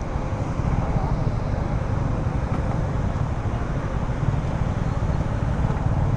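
Motorcycle on the move: a steady rumble of engine, road and wind noise, with no change in pace.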